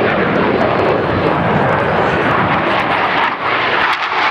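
Aircraft engines at close range, a loud steady roar that dips briefly about three seconds in.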